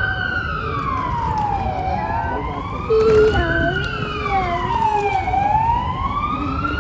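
Emergency vehicle siren wailing, its pitch rising and falling slowly, one cycle about every three and a half seconds, over street traffic noise.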